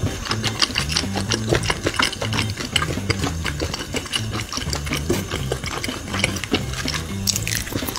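Close-miked wet chewing and lip-smacking of a mouthful of beef: many quick, irregular clicks all through.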